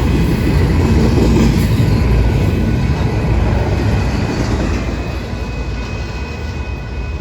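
Union Pacific train's cars rolling past at close range: a loud, steady rumble of wheels on rail that eases off slightly toward the end.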